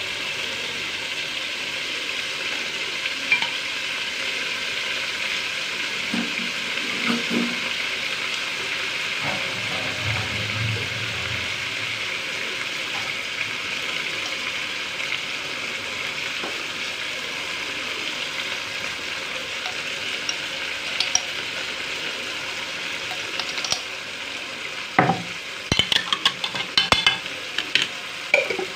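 Bitter gourd, chopped tomato and onion frying in ghee in an aluminium pot over a gas flame: a steady sizzling hiss. Near the end comes a quick run of sharp clinks and knocks.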